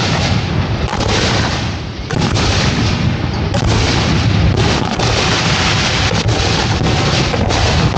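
Fireworks display firing from close by: a dense, continuous run of overlapping shell launches and bursts, booms and bangs with no pause between them.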